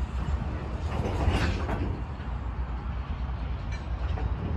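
Covered hopper cars of a freight train rolling slowly, a steady low rumble with a brief louder rush of noise about a second and a half in.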